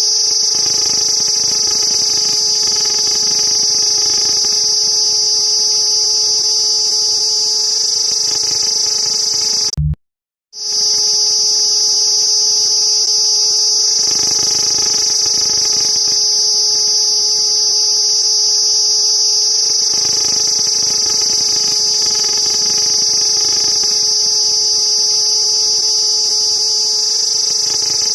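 Cicada buzzing in one continuous high-pitched drone, with a steady lower hum beneath it. Everything cuts out for about half a second about ten seconds in, then starts again unchanged.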